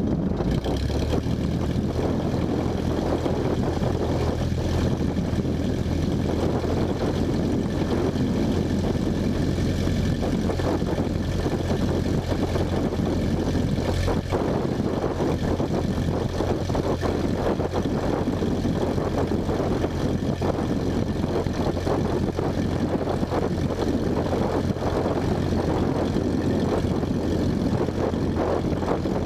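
Cessna 172's propeller engine running steadily, a continuous low drone.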